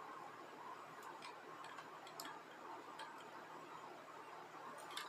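A few faint, sharp light clicks, roughly one a second, over a low steady room hiss.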